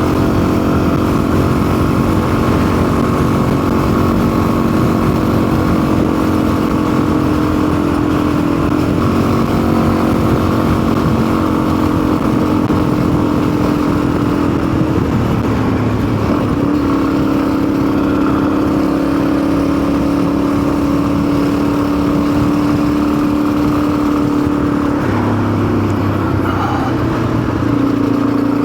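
Custom motorcycle's engine running steadily while being ridden on the road. The engine note holds a steady pitch for long stretches and shifts a few times: about a third of the way in, again midway with a brief dip before settling lower, and once more near the end.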